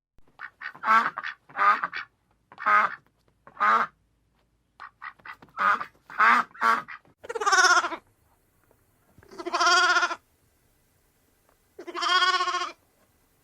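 An animal calling: a quick run of short, harsh calls over the first several seconds, then two longer drawn-out calls a couple of seconds apart.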